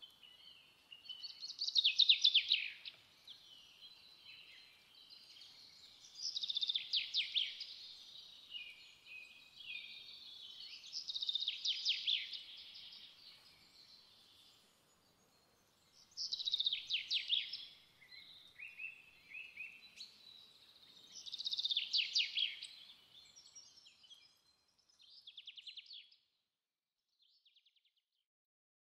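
A songbird singing: short high phrases, each with a rapid trill, repeated about every five seconds and fading out near the end.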